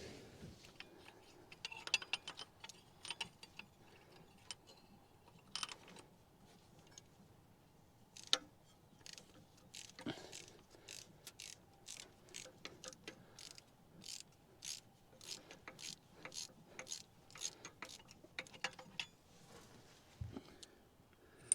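Ratchet wrench clicking in quick strokes as a spark plug is loosened and backed out of a V8 engine, with a few sharper knocks of tool on metal.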